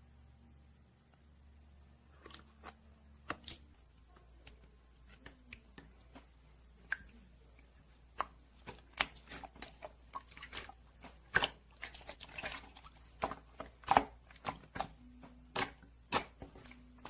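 Jelly slime worked by hand, giving off scattered sharp clicks and pops that begin about two seconds in and come thicker and louder after that.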